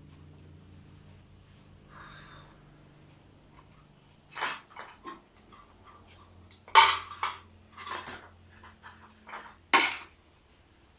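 Household objects being picked up and put down while tidying a room: a run of irregular knocks and clatters, the loudest a little after the middle and again near the end, over a faint steady hum.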